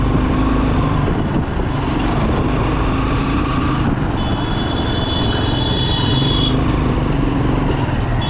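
Bajaj Pulsar 200 motorcycle's single-cylinder engine running steadily on the move, with road and wind noise. A high-pitched steady tone sounds for about two seconds midway.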